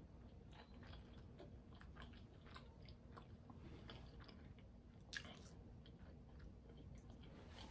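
Faint close-up chewing and biting of a chicken nugget, with many short mouth clicks and one sharper click about five seconds in.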